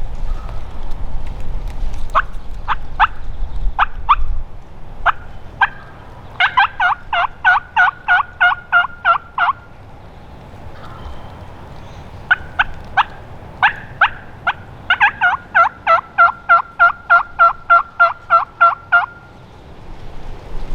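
Turkey yelping: a few sharp, spaced single yelps, then two long runs of rapid yelps, about three to four a second, with a short pause between them. Wind rumbles on the microphone in the first few seconds.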